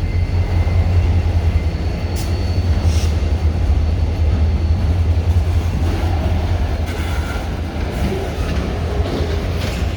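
Freight train rolling past, a steady low rumble with a few faint clicks.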